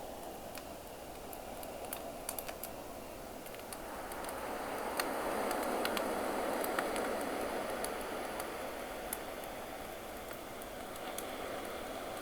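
Campfire crackling with scattered sharp pops over the wash of ocean waves; a wave swells up about four seconds in and ebbs away a few seconds later.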